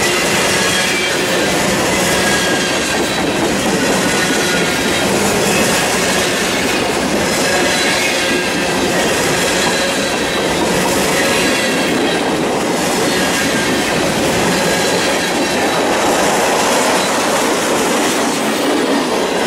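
Covered hopper cars of a freight train rolling past close by: a steady, loud rumble of steel wheels on rail, with a thin high wheel squeal wavering through it.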